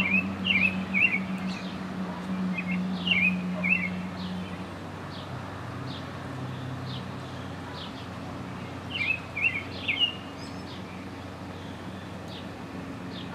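Songbirds chirping in three short bursts of quick notes, near the start, about three seconds in and about nine seconds in, with a fainter single note repeating about once a second. Under them runs a steady low hum that drops off about a third of the way through.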